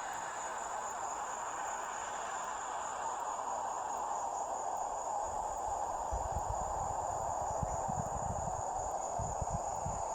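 Insects, likely crickets, trilling steadily at a high pitch over an even hiss. From about halfway through there is an uneven low rumble, like wind buffeting the microphone.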